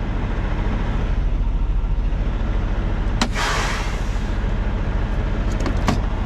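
Heavy truck's diesel engine idling steadily, heard from the cab. About three seconds in a click is followed by a short hiss, and a few light clicks come near the end.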